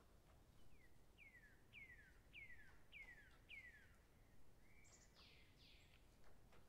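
Faint songbird song: a series of about six clear whistled notes, each sliding downward in pitch, a little under two a second, followed about five seconds in by a short level note and a couple of higher down-sweeping notes.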